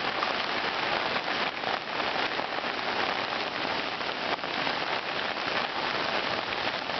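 Steady heavy rain: a dense, even hiss of falling drops with close drop hits mixed in.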